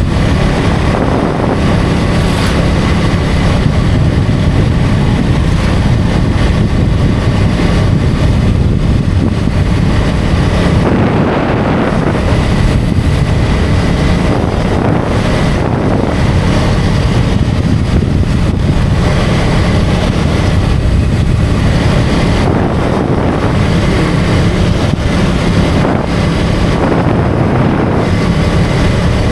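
KTM Duke 250's single-cylinder engine running steadily on the move, under heavy wind rush on the microphone.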